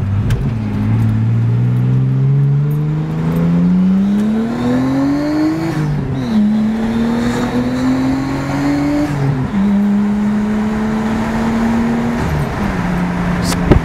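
Turbocharged car engine heard from inside the cabin, accelerating: the revs climb, drop at an upshift about six seconds in, climb again, drop at a second upshift about nine and a half seconds in, then hold fairly steady. A sharp click near the end.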